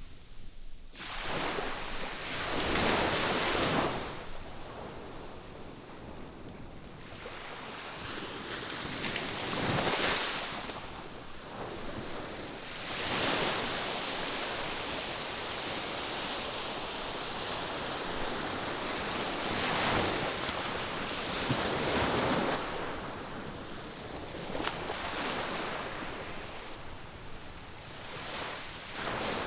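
Distant ocean surf breaking on the shore: a continuous wash of noise that swells and ebbs every few seconds as each wave comes in.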